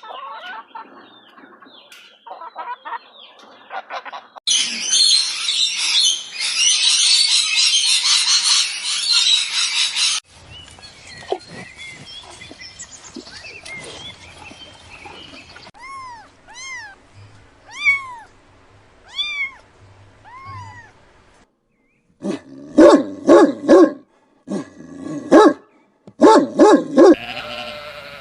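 A string of different animal calls, cut abruptly from one animal to the next: faint short calls, then a loud rough noisy stretch, then a run of short rising-and-falling calls, and near the end loud calls in quick repeated groups.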